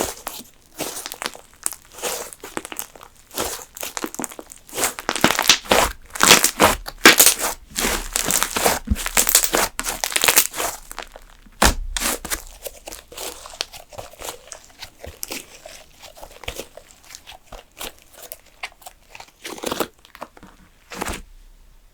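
Slime being squished and stretched by hand, giving dense crinkly crackling and popping, thickest from about five to eleven seconds in, then thinning to scattered single pops.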